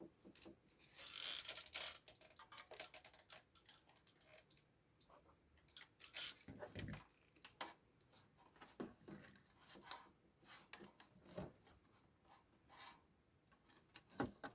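Scattered small clicks, taps and brief scrapes of hand tools working on a TV power-supply board during a capacitor replacement.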